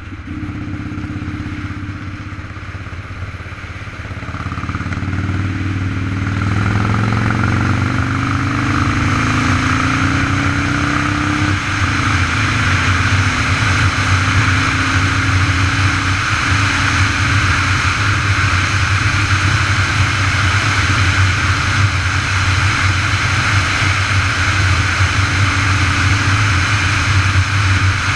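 Motorcycle engine accelerating, its pitch rising for several seconds and then dropping suddenly about twelve seconds in, before running steadily at speed under a constant rush of wind noise.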